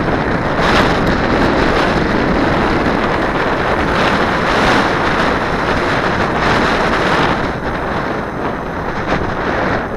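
Strong wind blowing across the microphone: a loud, dense rush that swells and eases in gusts.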